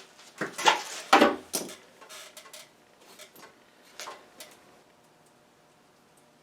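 Studded tractor tyre chains clanking as they are handled and unhooked: a few sharp metallic clanks in the first two seconds, then lighter clinks that die away after about four seconds.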